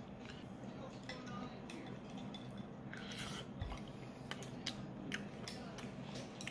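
Close-up chewing: soft wet clicks and smacks of a mouthful of food being chewed, several a second, with a short hiss about three seconds in.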